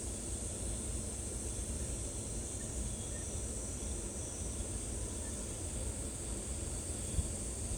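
Steady outdoor background noise: a low rumble with a constant high-pitched hiss over it.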